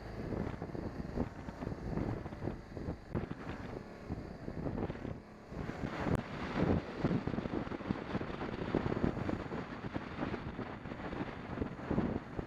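Wind buffeting the microphone of a camera on a moving motorcycle, a rushing noise that swells and drops in uneven gusts.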